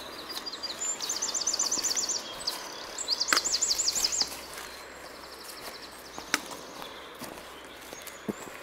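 A songbird singing about four phrases, each a quick run of repeated high notes lasting one to one and a half seconds, with short pauses between them; the last phrase is fainter.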